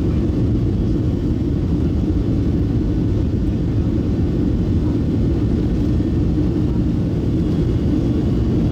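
Steady low rumble of a Boeing 737-700 airliner's jet engines, even in level throughout.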